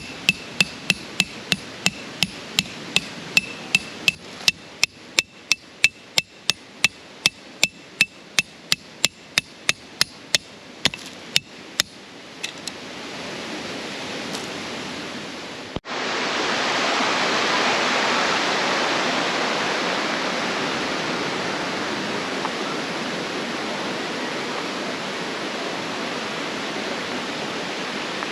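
Tent pegs being hammered into the ground: a quick, even run of ringing metal strikes, about three a second, that stops about twelve seconds in. After a sudden cut, a steady rushing noise follows.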